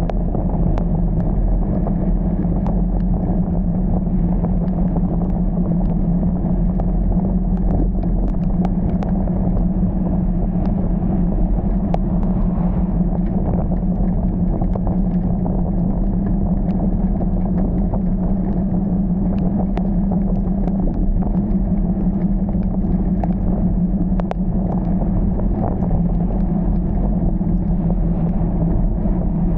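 Car driving: a steady engine and road rumble with a constant low hum, and scattered sharp ticks.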